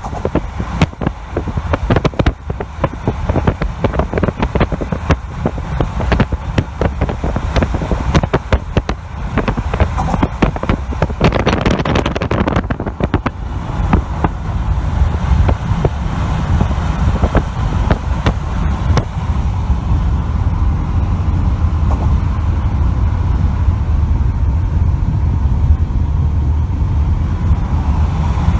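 Wind buffeting the microphone hard over the steady low running noise of a road vehicle on the move.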